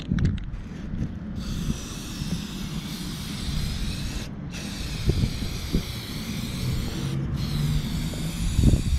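Aerosol spray can spraying primer in three long hissing passes, with two short breaks where the nozzle is let go.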